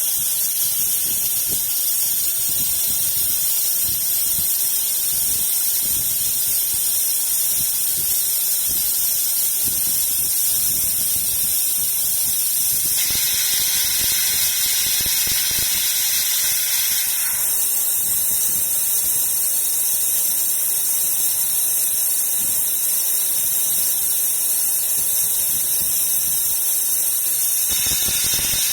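Laser glass-drilling machine running: a steady high hiss, which turns brighter and harsher for a few seconds around the middle.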